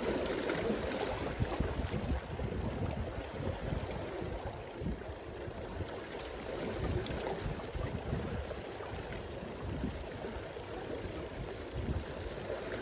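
Wind buffeting the microphone in uneven low gusts over a steady wash of surf.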